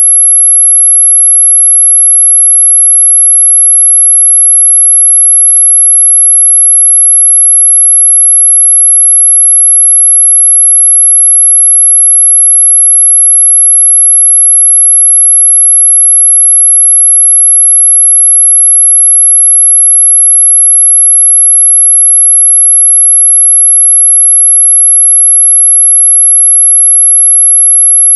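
A single steady, very high-pitched electronic tone, held without change: a mosquito-repellent 'ultrasonic' sine tone, though it lies within hearing at about 11 kHz.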